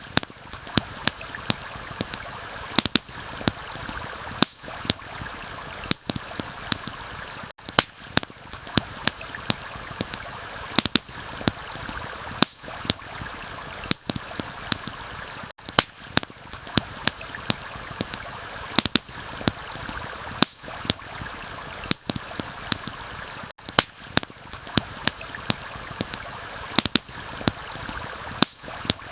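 Steady rush of a flowing stream with frequent sharp crackles and pops from a wood campfire. The mix dips briefly about every eight seconds.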